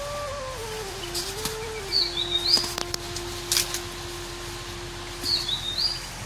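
A bird calls twice, the same short high chirping phrase each time, about three seconds apart. Under it runs a steady pitched tone that steps down through a few notes and then holds one low note.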